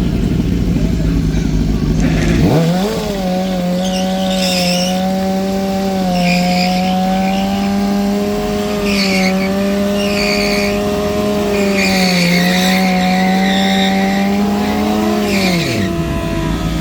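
Drag motorcycle doing a burnout: about 2.5 s in the engine jumps to high revs and is held there for over ten seconds while the rear tyre spins and squeals, then the revs drop near the end.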